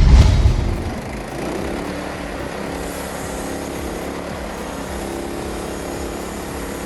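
A loud low thump, then a vehicle engine running steadily.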